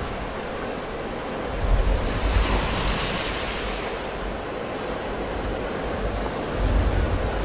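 Sea waves washing on the shore, one wave swelling and breaking about two to three seconds in. Low rumbles of wind buffet the microphone.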